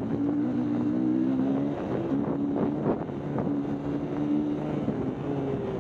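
Dirt bike engine running at steady revs, easing off briefly about two seconds in and revving a little higher near the end.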